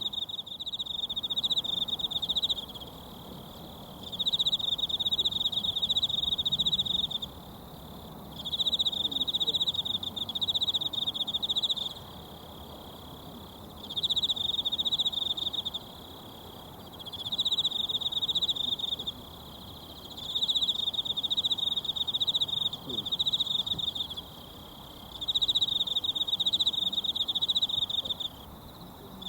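An insect singing in repeated high, pulsing trills of two to four seconds with short pauses between, about seven in all, over the faint, even rush of a mountain stream.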